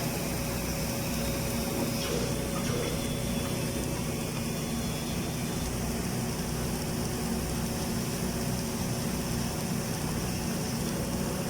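Steady machine hum with a constant hiss underneath, unchanging throughout.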